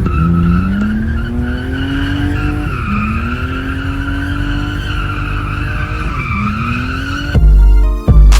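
Car engine accelerating hard, its revs climbing steadily and then dropping sharply at two gear changes before climbing again, with a steady high tyre squeal over it. About seven seconds in, it cuts to loud bass-heavy music.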